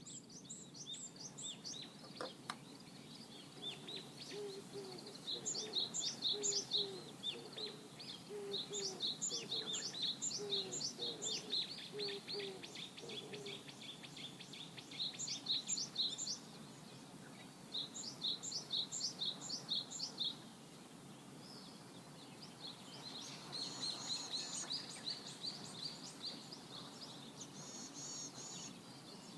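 Songbirds singing: phrases of quick, high chirping notes repeat every few seconds, with a fainter, lower call repeating through the first half, over a steady low background hum.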